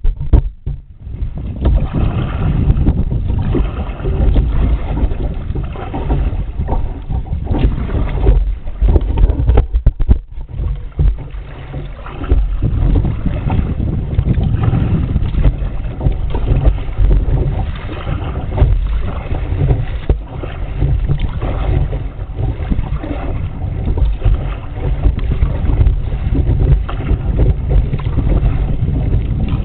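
Wind rumbling and buffeting on the microphone, over water splashing and lapping around an ocean kayak.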